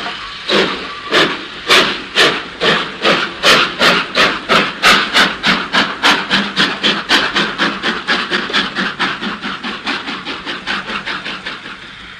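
Steam locomotive pulling away from a standstill, its exhaust puffing in sharp chuffs. The chuffs come about two a second at first, quicken to about four a second, and fade away near the end.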